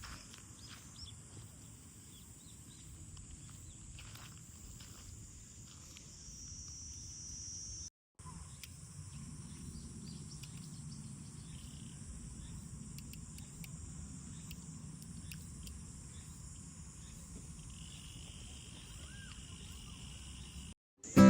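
Steady, high-pitched insect chorus with a low rumble beneath it. The sound drops out for a moment about eight seconds in.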